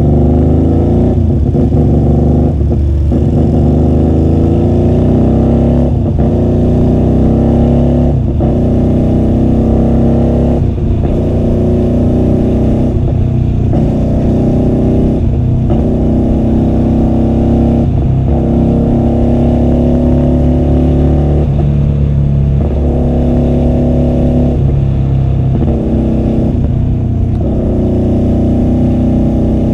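QJMotor SRV250's V-twin engine running through a custom two-into-one exhaust while riding. The pitch rises steadily, then drops back about every two to three seconds as the throttle is rolled off and on through the gears.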